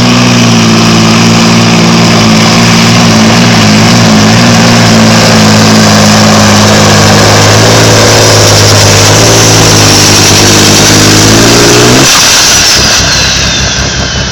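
Volvo Viking modified pulling tractor's 2000-horsepower diesel engine running at full load through a pull, very loud and steady, its pitch creeping up near the end. About 12 seconds in the engine is cut off abruptly and a high whine glides down as it winds down.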